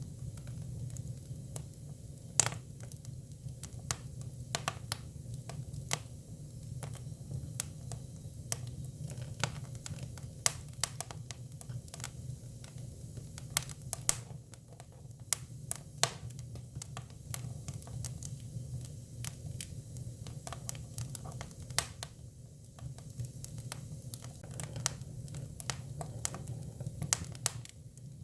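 Hinoki cypress firewood burning, with irregular sharp crackles and pops, a few of them loud, over a steady low hum.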